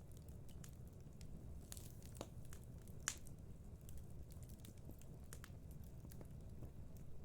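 Wood fire crackling in a fireplace: scattered irregular pops and snaps over a steady low rumble, with one sharper pop about three seconds in.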